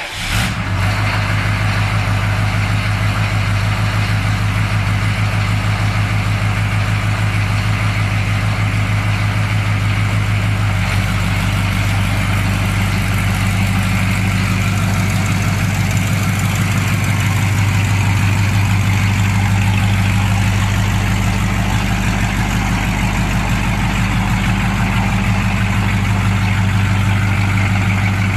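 1984 Chevy Silverado K10 pickup's V8 engine idling steadily just after starting up, with a low, even pulse.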